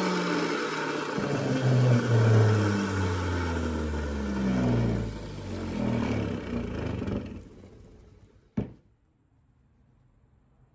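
Electric sander winding down after being switched off, its motor tone falling steadily for about seven seconds until it stops. A single sharp click follows near the end.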